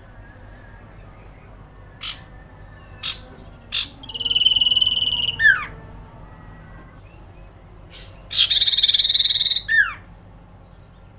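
Common iora (cipoh) calling: two long buzzy trills, each ended by a quick downward-sliding whistle, with a few short sharp chips before them.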